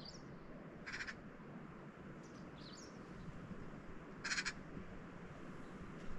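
Birds calling: two short harsh calls, about a second in and about four seconds in, with a few brief high chirps between them.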